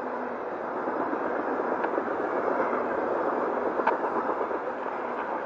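Freight train of covered grain hopper cars rolling past: a steady rush of steel wheels on rail, with two sharp clicks about two seconds apart.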